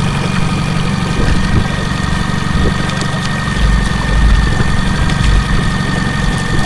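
Boat's outboard motor idling at low trolling speed: a steady engine hum with a thin high whine held over it.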